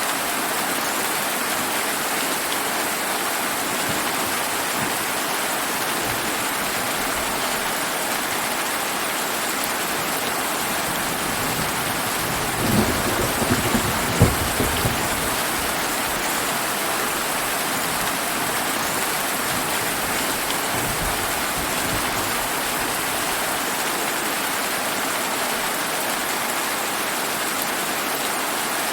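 Steady rain hissing, with a roll of thunder that builds about a fifth of the way in, breaks into several sharp cracks around the middle and rumbles away.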